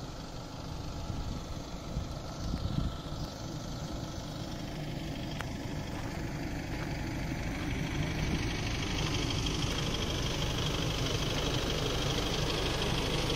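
Car engine idling steadily, with a low rumble. A hiss builds up over the second half.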